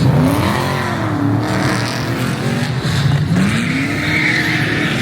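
Muscle car engine revving, its pitch rising and falling twice over a steady low rumble.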